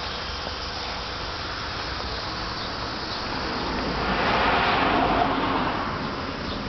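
Yamaha Axis 90 scooter's small two-stroke engine running with a steady buzz, swelling louder for about a second and a half around the middle before settling back.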